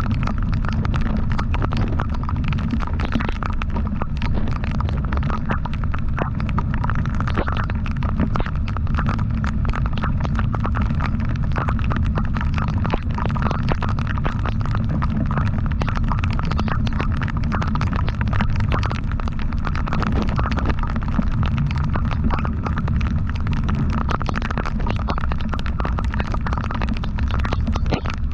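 Motorcycle on the move, its engine running steadily under heavy wind buffeting on the microphone, which makes a constant low rumble with crackling.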